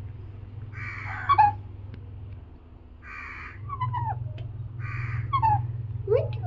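Pet parrot calling: three harsh squawks about two seconds apart, mixed with short falling chirps.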